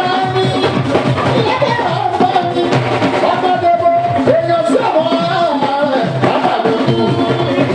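Fuji music played live: a lead voice singing melodic, bending lines over dense drums and percussion.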